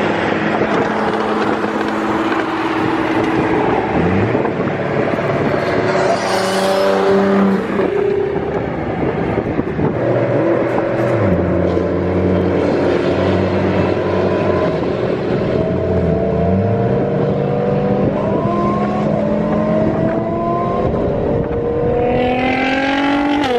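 Car engine running under way, its pitch holding and then climbing in steps as it accelerates through the gears, with a sharp rise in revs near the end.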